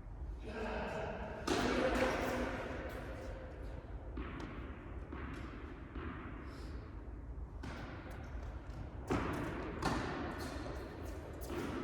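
Tennis ball being struck by rackets and bouncing on an indoor court during a rally: a string of sharp, irregular knocks.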